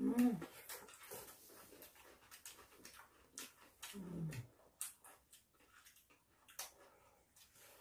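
Crunching and chewing of a raw carrot, with light clicks of chopsticks on dishes, broken by two short falling hums of a voice: one at the very start, the loudest sound, and another about four seconds in.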